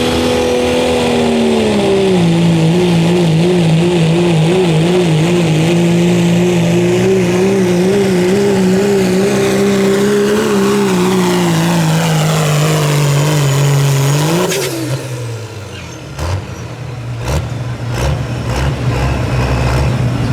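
Turbocharged diesel pickup engine held at full revs while pulling the sled, its pitch wavering and slowly sagging under load, then shut down abruptly about two thirds of the way through as the pull ends, dropping to a low idle with a few knocks.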